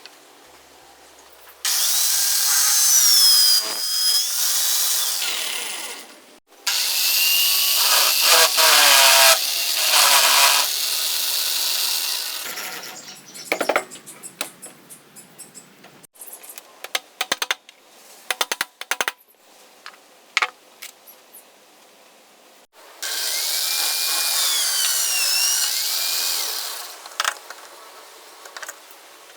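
A power tool working wood, run three times for a few seconds each, its pitch wandering as it bites. Between the second and third runs there are scattered knocks and clicks of wood and tool being handled.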